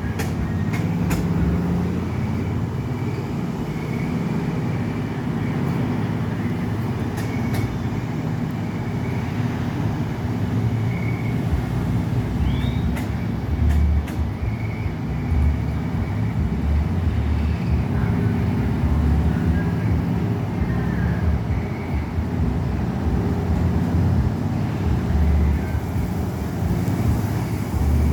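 Coffee dryer machinery running with a steady low rumble.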